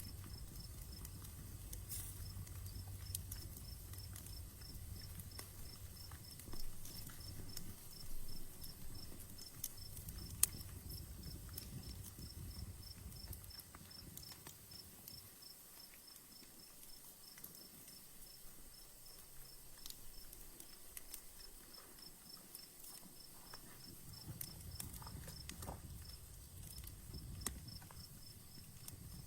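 Outdoor campfire crackling faintly, with scattered sharp pops and snaps, the sharpest about ten seconds in. A cricket chirps steadily in a rapid, even pulse behind it.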